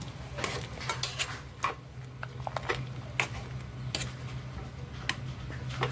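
Pots and kitchen utensils clinking and knocking in scattered light taps, over a steady low hum.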